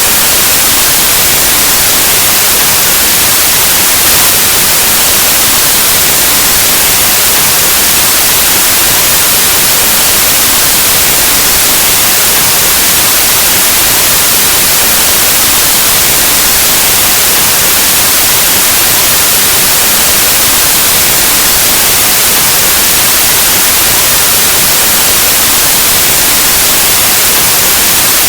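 Steady, loud white noise: an even static hiss across the whole range, brightest in the highs, like analog TV or radio static, with no change throughout.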